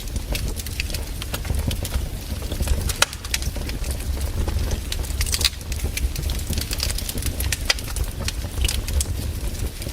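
Campfire crackling, with frequent irregular sharp pops and snaps from the burning wood over a steady low rumble.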